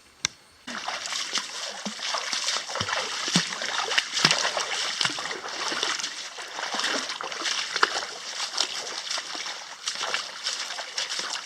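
Water splashing and spattering, a steady rush dotted with many small sharp splashes, starting abruptly about a second in.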